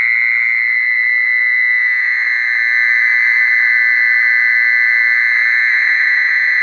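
Recorded mole cricket song played through a loudspeaker as a lure: a loud, steady, high-pitched call that does not break, a little stronger after a couple of seconds.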